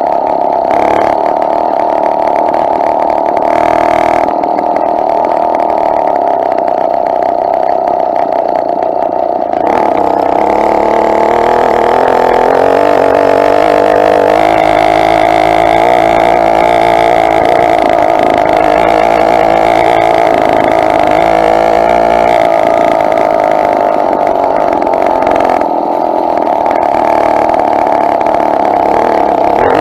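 Two-stroke motorized bicycle engine running steadily under way. From about a third of the way in, its pitch rises and falls for a while as the throttle changes.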